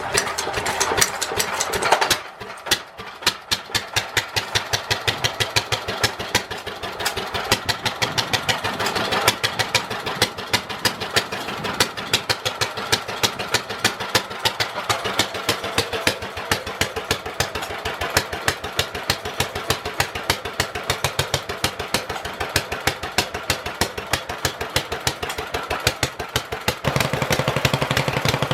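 Petter A1 1.5 HP single-cylinder stationary engine starting up: it fires, falters briefly about two seconds in, then settles into a steady, even run of exhaust beats. Near the end the beat becomes louder and heavier.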